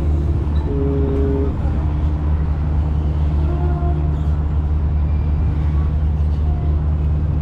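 Boat engine running steadily, a constant low drone with no change in pace.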